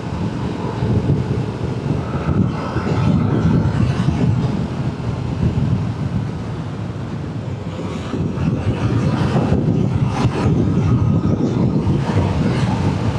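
Motorcycle engine running at cruising speed, heard from the rider's position, with wind rushing over the microphone; the wind buffets harder from a bit past the middle.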